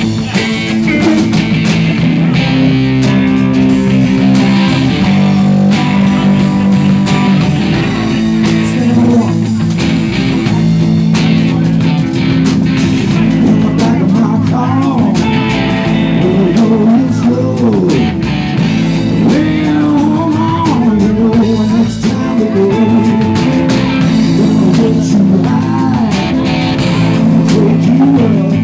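Live band playing a bluesy rock song with guitar. Around the middle a lead line with wavering, bending notes rises over the steady sustained chords.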